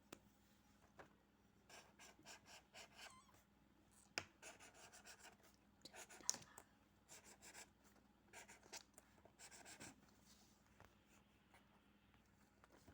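Faint scratching of a drawing tool on paper, in several bursts of quick strokes with pauses between them.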